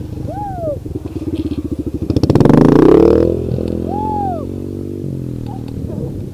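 Dirt bike engine running at a low rumble, revved once about two seconds in, its loudest point, then dropping back. Two short high chirps that rise and fall come just after the start and about four seconds in.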